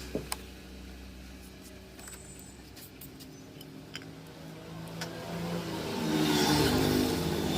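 Honda Activa 110 scooter's single-cylinder four-stroke engine running on its newly fitted cylinder kit. It idles steadily, then revs up louder about six seconds in.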